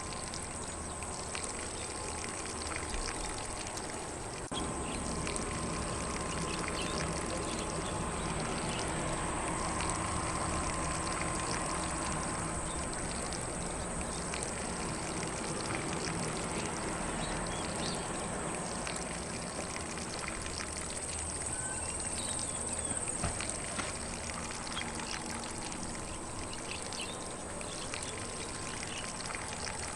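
Lawn sprinkler spraying water over grass, a steady even hiss of falling spray, with faint bird chirps here and there.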